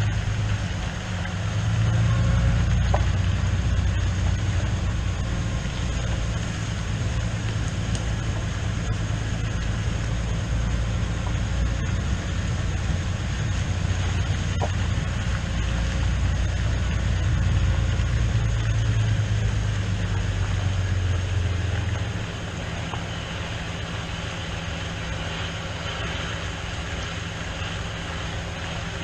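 Tractor engine running steadily, a low drone that drops to a quieter level about three-quarters of the way through.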